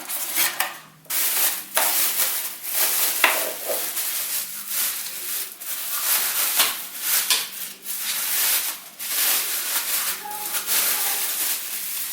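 Packaging being handled while unpacking a new electric scooter: irregular rustling and scraping, over and over.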